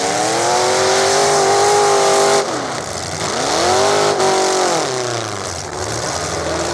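Demolition derby car's engine revving high twice, its wheels spinning in the dirt. The first rev climbs and holds for about two seconds before dropping suddenly; the second is shorter and falls away about five seconds in. A steady hiss runs underneath.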